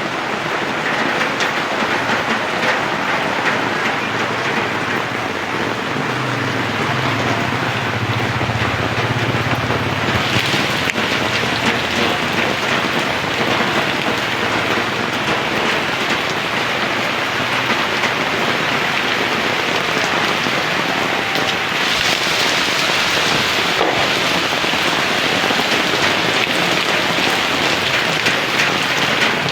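Heavy rain falling in a steady, loud hiss. A low rumble comes in for a few seconds about a third of the way through, and the hiss surges brighter twice, briefly around ten seconds in and again for a couple of seconds past the two-thirds mark.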